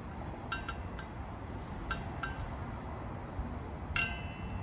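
Electronic lighter clicking as it is used to ignite a 1 lb propane heater's burner: a run of sharp, slightly ringing clicks, several close together in the first half and one louder click near the end, over a steady low rumble.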